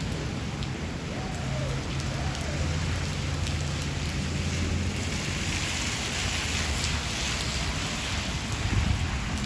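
Steady rain falling, with a low rumble underneath; the rain hiss thickens about six seconds in.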